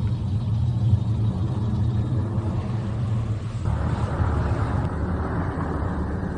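A plane's engine rumbling steadily, with a rushing hiss that grows louder about three and a half seconds in.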